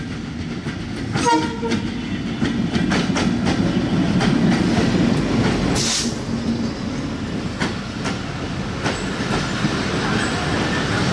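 Diesel-hauled intercity express train rolling along a station platform. The locomotive's engine drones through the first half, a short horn blast sounds about a second in, and a brief sharp hiss comes about six seconds in. The wheels clack over rail joints as the coaches roll past.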